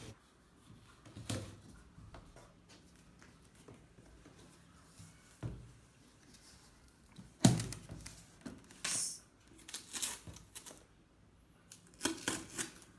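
Cardboard packaging being opened by hand: scattered clicks and scrapes, a sharp knock about seven and a half seconds in, then more tearing and handling noises a second or two later and again near the end.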